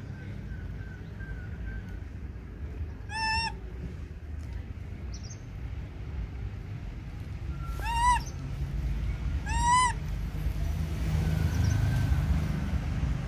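Baby macaque giving three short, high calls, each rising and falling in pitch: one about three seconds in and two close together near the end. A steady low rumble runs underneath.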